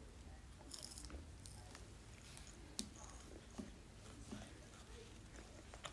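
Faint chewing and mouth clicks of someone eating, with scattered light clicks; the loudest is a sharp click about three seconds in.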